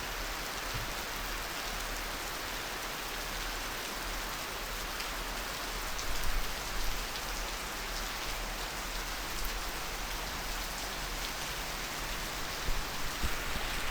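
Steady rainy-season downpour of rain pouring down, with a few louder splashes about six seconds in and again near the end.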